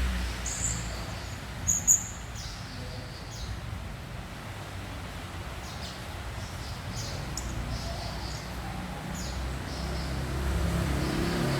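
Young tledekan gunung twittering in short, high chirps, with two louder chirps about two seconds in and quick scattered tweets after, over a steady low background hum.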